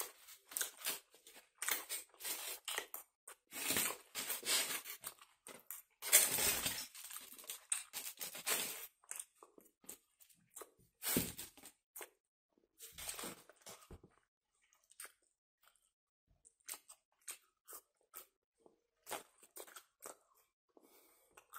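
Close-up eating sounds: a person chewing French fries, with scattered wet mouth clicks and crackles that thin out in the second half. A louder burst of handling noise comes about six seconds in.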